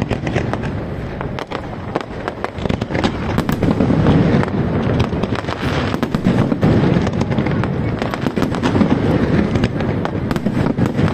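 A New Year fireworks display going off continuously: many sharp pops and crackles, some in quick succession, over a dense, steady rumble of bursts.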